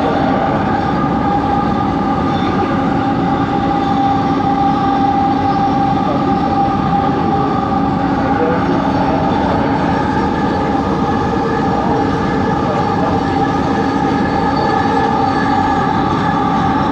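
LRT train set 70 running at steady speed, heard from inside the car. A constant rumble from the running gear carries a steady whine of several tones from the traction motors: the unusual motor noise this set is recorded for. A few higher tones join in about ten seconds in.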